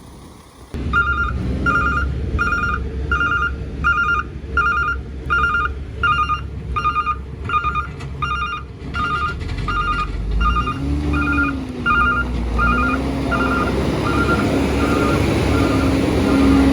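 A truck's reversing alarm beeping about twice a second over the rumble of its engine; the beeps fade away over the second half while the engine revs up and settles into a steady pull.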